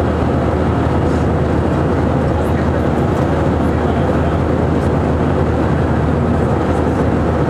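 Steady, loud drone of an Airbus A319 heard from inside the passenger cabin: engine noise and rushing air with a constant low hum underneath.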